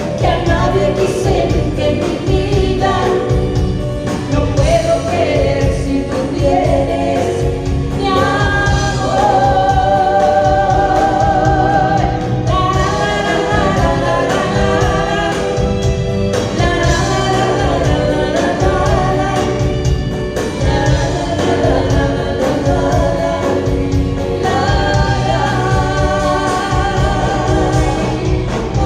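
Live music: singing with vibrato over a full band accompaniment with a steady bass line, continuous and loud.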